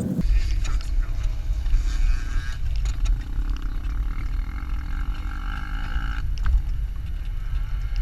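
Jeep driving over sand dunes: a heavy, steady low rumble of engine and motion, with a faint higher whine in the middle.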